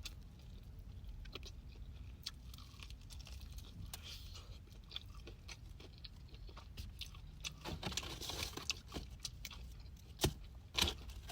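A person chewing food with open-mouthed smacking: many short wet clicks, busiest about eight seconds in, with two sharper, louder smacks near the end.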